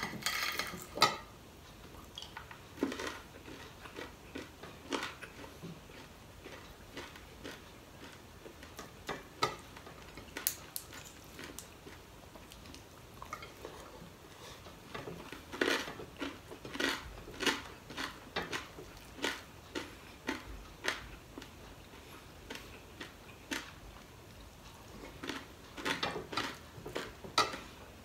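Close mouth sounds of a person eating by hand: chewing and smacking in short wet clicks that come in bursts, with a sharp click about a second in.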